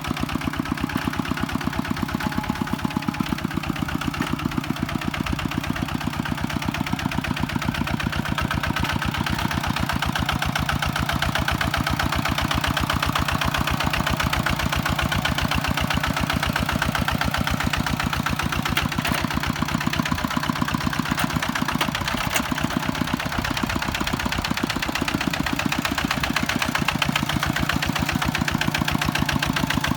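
Kubota tractor's diesel engine running steadily with a fast, even firing beat.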